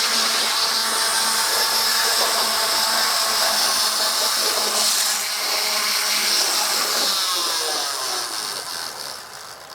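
First-generation Athearn HO scale diesel locomotive running flat out down the track, its motor, flywheels and gears giving a loud steady whine. About seven seconds in, power is cut and the whine drops in pitch and fades as the locomotive coasts down.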